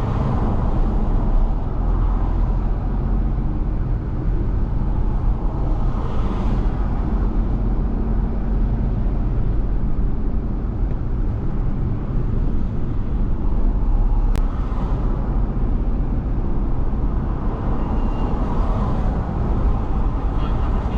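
Steady road noise of a car driving on a wet road in the rain: a constant low rumble of engine and tyres, with one sharp click about fourteen seconds in.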